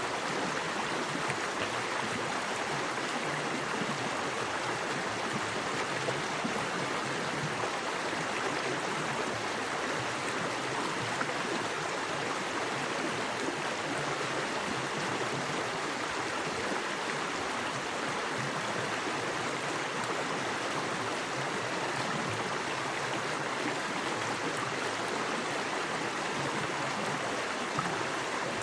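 Small woodland creek with fast water running over rocks, a steady rushing wash of water.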